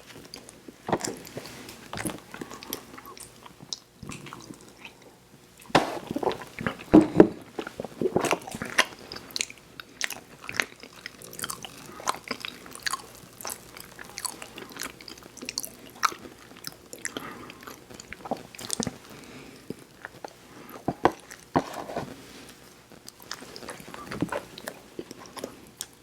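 Close-miked eating sounds of snack cakes and sweets: bites followed by chewing, with many sharp mouth clicks, busiest about six to nine seconds in and again around twenty-one seconds.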